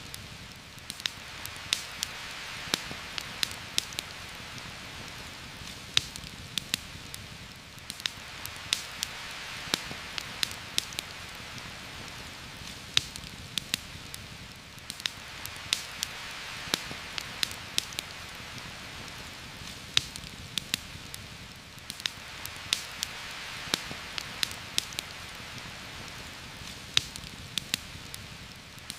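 Heavy rain falling through the forest canopy as a steady hiss that swells and eases every seven seconds or so. Sharp pops and ticks land at irregular moments throughout.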